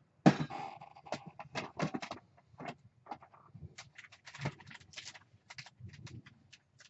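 Craft materials handled on a tabletop: a rubber stamp wiped with a paper wipe, with rustling and a string of light clicks and taps, and one louder knock about a quarter second in.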